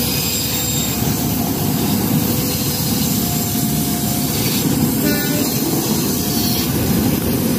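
Passenger train coaches rolling past at close range: a steady, loud rumble and rush of steel wheels on rail, with a few short, faint, thin squeals now and then.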